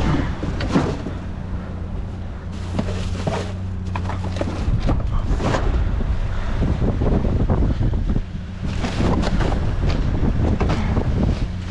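Wind buffeting the microphone over a steady low hum, with scattered short clatters and rustles of rummaging through trash.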